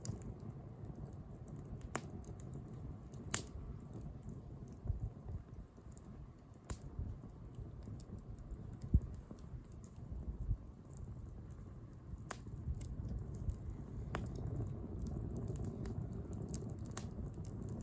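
Wood bonfire burning: a steady low rumble of flame with sharp, irregular crackles and pops from the burning wood. The rumble grows a little louder in the last few seconds.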